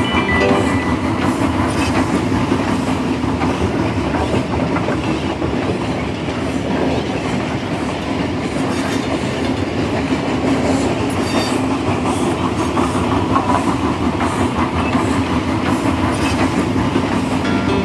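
A train running along the track, a steady, even sound.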